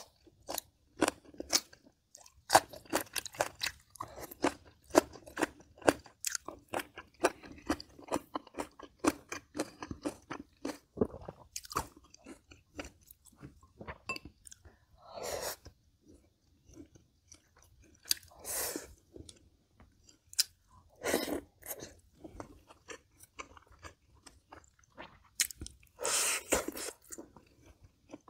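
Close-up crunchy chewing of green onion kimchi, with many rapid crunches at first. About halfway through, the chewing becomes sparser, broken by a few longer, louder, noisier sounds.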